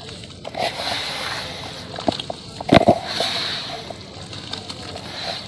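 Chunks of sand-cement crumbling and crunching, a gritty rustle with sharp cracks, the loudest a double crack about three seconds in, then fainter crumbling.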